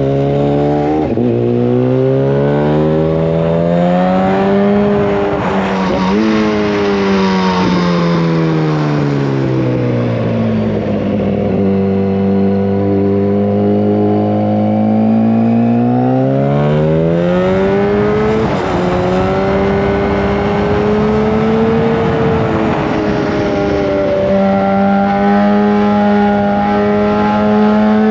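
Yamaha FZ1 Fazer's inline-four through a Mivv GP exhaust with the dB killer removed, heard from on board while riding. Revs climb and drop sharply about a second in and again around six seconds, fall away over the next few seconds, hold steady, then pick up again about 17 s in and settle into a steady run.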